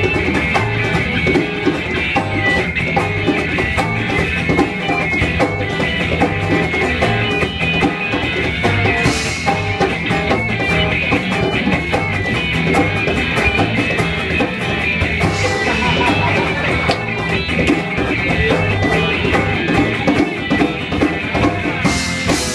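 Live rock band playing an instrumental passage with guitar and drum kit. The music stops abruptly at the end.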